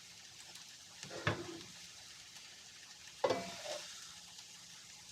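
Vegetables sizzling in a hot frying pan as a utensil stirs them, scraping and clattering against the pan twice, about a second in and again near the middle.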